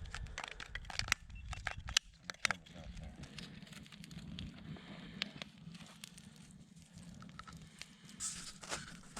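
Freshly lit campfire of oak, birch bark and lump charcoal crackling, with sharp pops scattered irregularly throughout.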